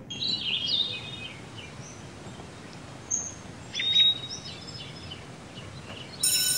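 Birds chirping in short, high calls over a steady outdoor background hiss, with the loudest, sharpest call about four seconds in.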